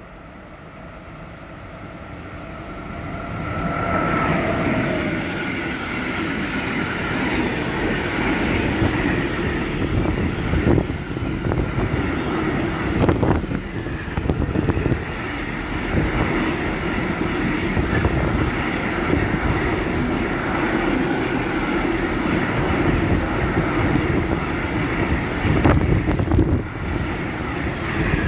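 Container freight train approaching and running past close by: the noise builds over the first few seconds into a steady loud rumble of wheels on rails, with occasional sharp knocks. A brief ringing tone sounds as it arrives.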